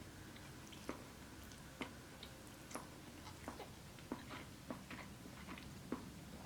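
Faint close-miked chewing: soft, sharp mouth clicks, about one or two a second.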